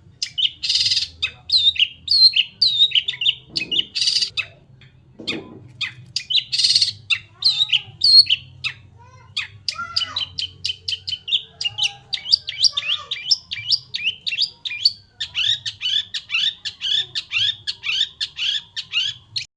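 White-rumped shama (murai batu) singing vigorously: a varied string of sliding whistles and chirps, broken by a few harsh raspy bursts, and ending in a fast run of repeated notes.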